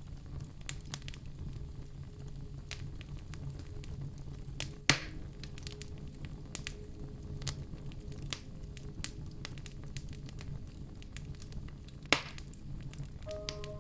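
Wood fire burning in a fireplace: a steady low rumble with scattered small crackles and two loud sharp pops, about five seconds in and about twelve seconds in.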